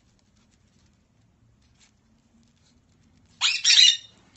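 A pet parrot squawking twice, harsh and loud, near the end.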